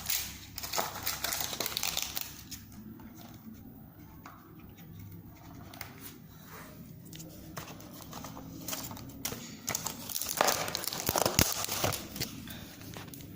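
Packaging crinkling and rustling as it is handled and opened, with irregular crackles and clicks; louder in the first two seconds and again in the last few, quieter in between.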